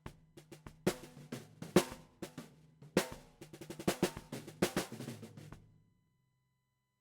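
Drum kit recording played back: kick, snare and ringing toms with cymbals. The playing stops a little under six seconds in and rings out, leaving silence.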